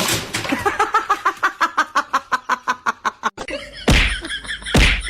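A person laughing in a quick run of short pitched bursts. It stops and gives way to loud, sharp thumps about a second apart.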